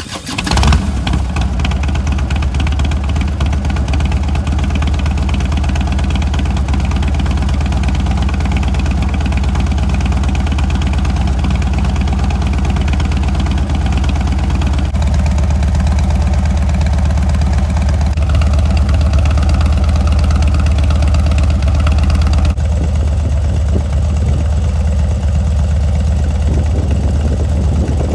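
2015 Harley-Davidson Dyna Street Bob's air-cooled V-twin engine catching in the first second after the starter, then idling steadily with a deep, loud, lumpy exhaust note that shifts slightly in tone a few times as the idle settles.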